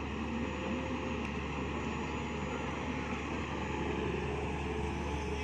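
Mini excavator's engine running steadily while it works, with its pitch shifting slightly.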